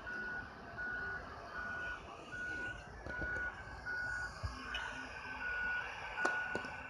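Garbage truck's backup alarm beeping as it reverses: about nine evenly spaced single-tone beeps, a little over one a second, over the truck's low rumble, with a few sharp clicks near the end.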